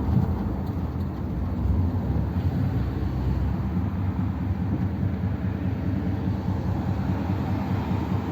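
1957 Ford Thunderbird's V8 running while the car is driven, with road noise: a steady low drone.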